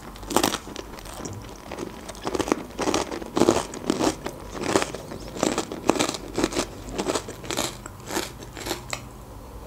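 Close-miked chewing of crunchy rye croutons: a run of sharp, irregular crunches, two or three a second.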